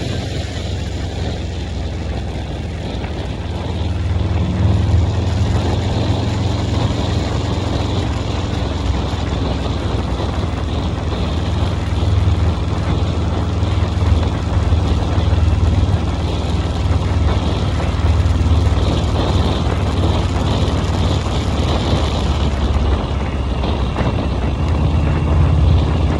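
Motorcycle engine running steadily with a low, rapid firing rhythm, a little louder from about four seconds in.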